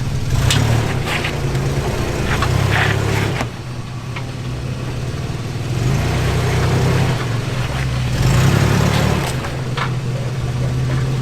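An off-road vehicle's engine running at low revs, easing off and picking up again, with a few sharp knocks. The engine drops off about three and a half seconds in, then builds back up.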